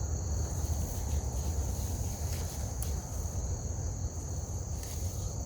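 A steady high-pitched insect chorus, like crickets, over a constant low rumble, with a couple of faint clicks.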